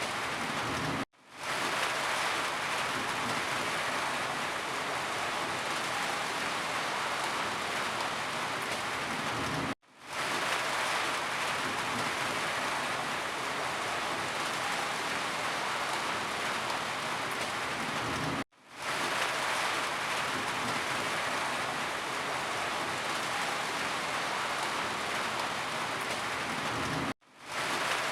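Steady heavy rainfall, an even hiss of rain pattering on surfaces. The sound cuts out briefly four times, about every nine seconds, and each time fades back in within about half a second.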